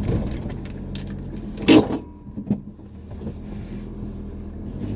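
Car running on the road, heard from inside the cabin as a steady low engine and road rumble. A sharp thump comes just under two seconds in, with a smaller knock about half a second later.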